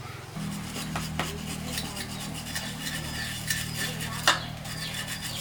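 Metal parts clinking and scraping against each other, with a steady low hum that starts about half a second in and one sharp clink near the end.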